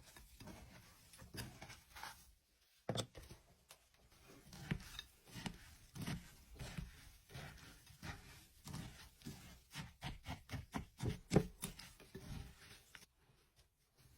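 Irregular crisp crunching and crackling of a brittle material being broken up, with a few louder crunches late on.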